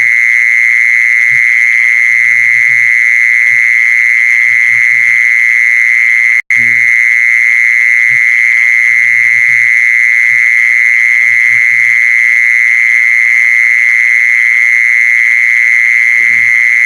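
Animal lure-call recording for calling a female khmol. A loud, steady high-pitched drone breaks off for an instant about six and a half seconds in, over faint low calls that recur every second or two.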